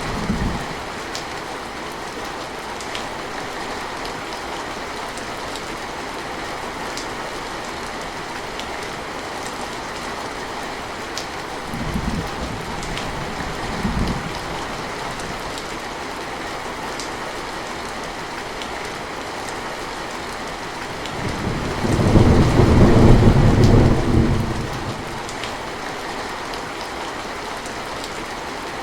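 Steady rain falling, with fine drop ticks. A roll of thunder dies away at the start, two brief low rumbles come about halfway through, and a longer, louder roll of thunder comes a few seconds before the end.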